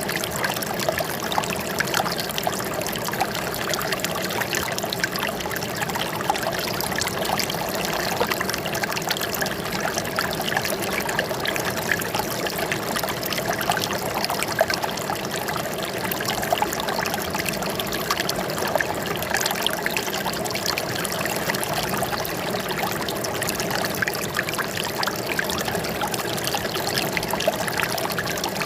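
Running water trickling and splashing steadily, like a small stream or cascade, without letup.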